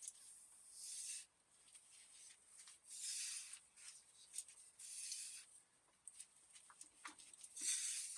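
Faint hand-tool work on the truck: four short rasping strokes, about two seconds apart, with scattered light clicks in between.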